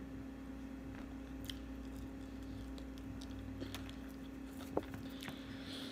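Faint chewing of fried food with small mouth clicks, over a steady low hum; a light knock about five seconds in.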